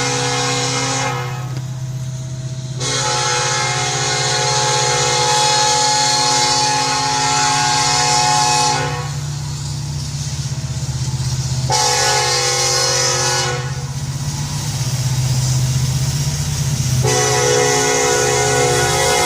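BNSF diesel locomotive air horn sounding in blasts: one ending about a second in, a long one of about six seconds, a short one, then another long one starting near the end. Underneath is the steady low drone of the locomotives' diesel engines as the coal train gets under way after an emergency stop.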